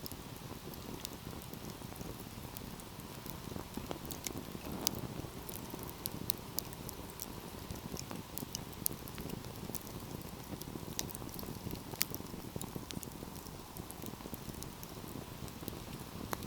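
Wood fire burning, with a steady low rumble and frequent irregular crackles and pops, a few sharper pops standing out.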